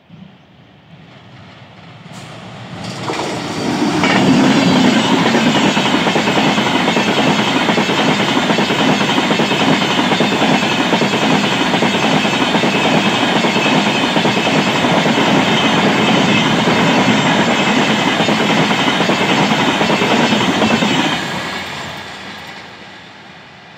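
Indian Railways express train passing close at speed: the rush of wheels on rail with the clickety-clack of the coaches over the rail joints. It builds over the first few seconds as the train arrives, holds steady and loud while the coaches go by, then fades near the end as the last coach moves away.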